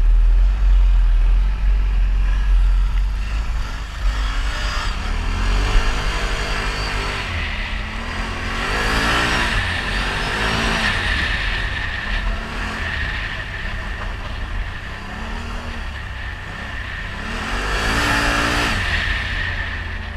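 ATV engine revving up and falling back over and over, with a steady low rumble underneath.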